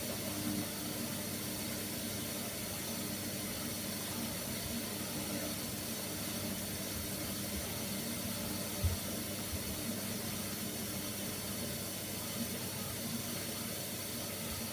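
Hoover Nextra washer dryer taking in water, a steady hiss of water running in with a faint low hum under it, most likely filling for a rinse. A single short knock sounds about nine seconds in.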